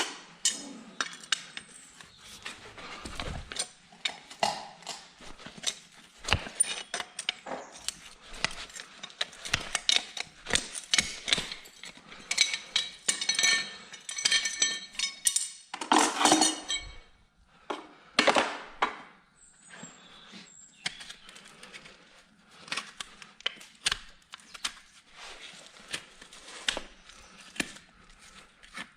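Metal farrier's tools working on a horse's hoof: irregular sharp clicks, scrapes and metallic clinks, busiest about halfway through, with a couple of louder scraping bursts.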